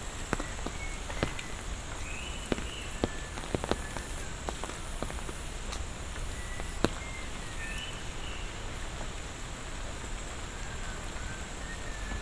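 Monsoon rain falling steadily, with heavier drops landing close by as scattered sharp ticks. A short chirping call repeats every five seconds or so, over a steady high hum.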